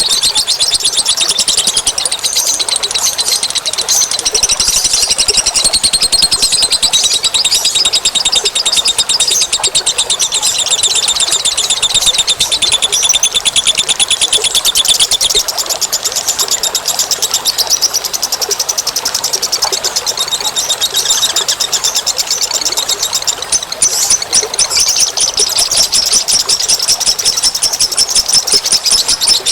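Bird-lure recording of small birds chattering in a dense, rapid, high trill that runs on without a break.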